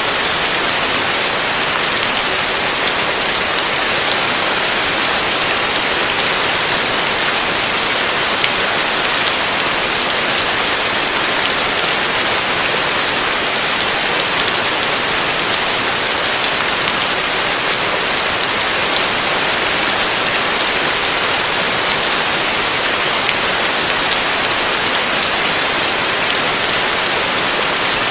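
Heavy rain falling on a roof, a steady, dense patter.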